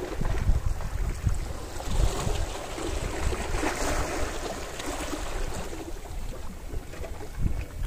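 Calm sea waves washing onto the shore: one wash swells up around the middle and fades away. Wind rumbles on the microphone underneath.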